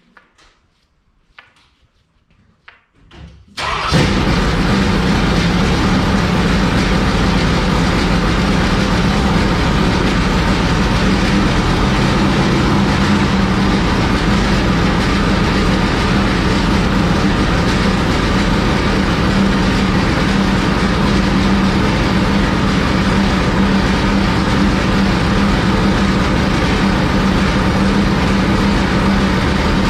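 Small-block Chevy dirt late model engine firing up suddenly about four seconds in, then running loud and steady without revving. It is the first start of the freshly installed engine after priming its oil system.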